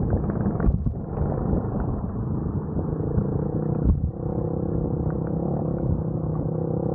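Motorcycle engine running under load, heard with heavy rumble and buffeting; from about four seconds in it holds a steadier note.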